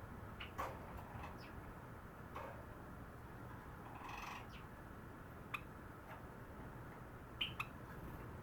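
Cherry Java sparrow giving sparse short clicks and chirps, with one longer buzzy note about four seconds in.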